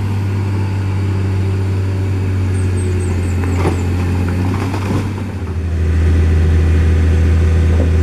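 A motor vehicle's engine running steadily close by with a deep, even hum; about five and a half seconds in, its pitch drops slightly and it gets louder. A few faint knocks and high chirps are heard briefly in the middle.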